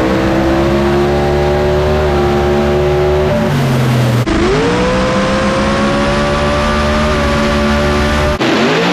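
Drag race car engine at full throttle during a pass, its pitch climbing and levelling off. The sound breaks off abruptly about four seconds in and again near the end, each time resuming lower and rising again.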